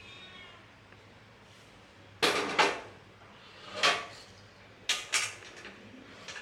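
Sharp knocks and clatters of hard objects being handled and set down: two close together about two seconds in, one near four seconds, and two more a second later.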